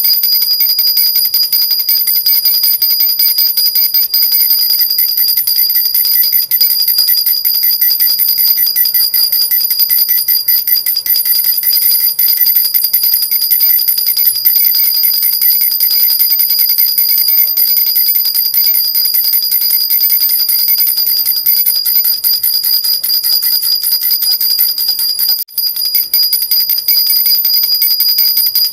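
A metal jhunjhuna baby rattle shaken without pause: its little bells jingle in a fast, even rattle over a steady high metallic ringing. There is a brief break about 25 seconds in.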